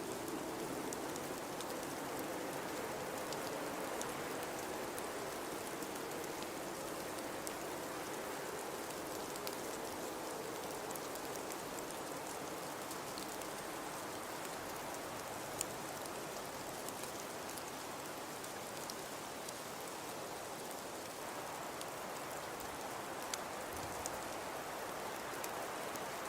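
Blizzard ambience: a steady rush of high wind, with a low howl that fades away in the first half. Scattered faint ticks run through it, and two sharper clicks come near the end.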